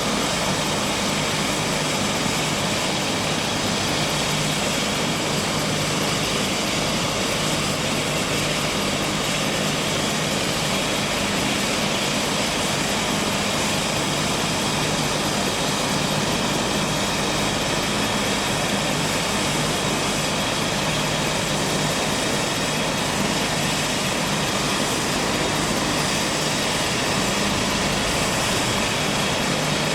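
Steady engine noise with a constant low hum, unchanging throughout.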